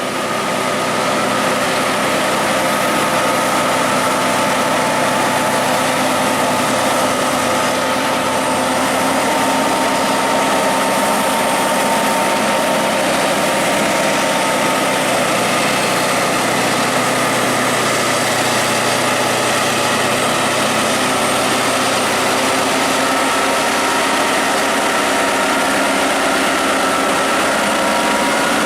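Heavy truck's diesel engine running steadily under a heavy load up a steep climb; its pitch creeps up slightly near the end.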